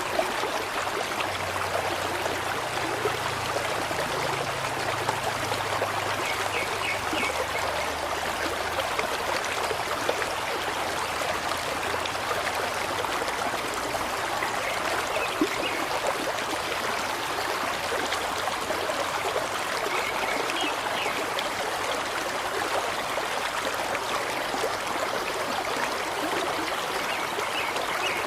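Running water, a stream flowing and trickling steadily, with a faint low rumble in the first half.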